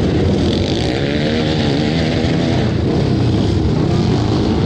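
Flat-track motorcycle engine running hard through a turn, its pitch wavering up and down as the throttle changes about one to two seconds in.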